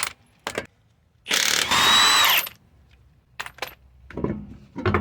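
Impact wrench spinning off a 21 mm wheel lug nut. It gives a short burst, then a run of about a second, with a high whine over the hammering. A few metallic clicks and clanks follow near the end.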